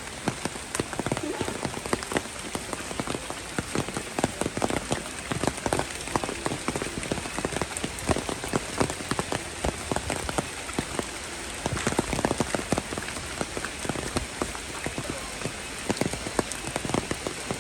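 Rain falling on hard surfaces: a steady hiss full of dense, irregular drop hits.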